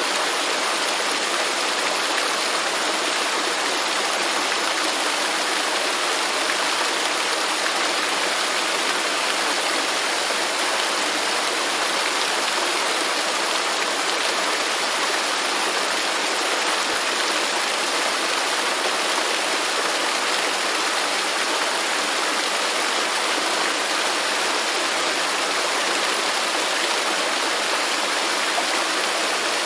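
Waterfall: a steady, unbroken rush of falling water, an even hiss with little low rumble.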